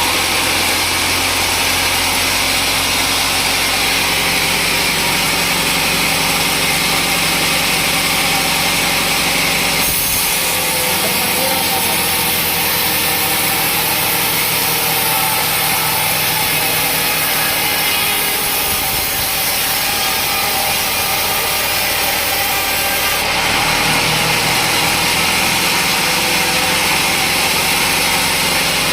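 Sawmill saw and its motor running steadily. From about ten seconds in, the sound turns brighter and hissier as the blade cuts through a teak log, then settles back to the plainer machine hum a few seconds before the end.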